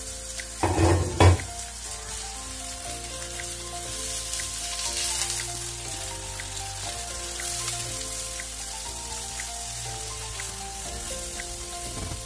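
Ground pork sizzling in hot oil with onion and garlic in a pan, stirred and broken up with a spatula, with a cluster of loud knocks about a second in. Background music plays underneath.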